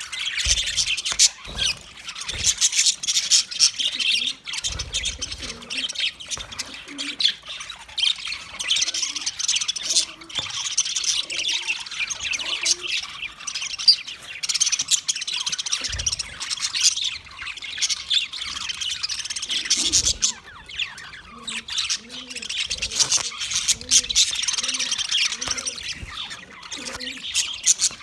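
Budgerigars chattering without pause: dense, overlapping chirps, warbles and squawks.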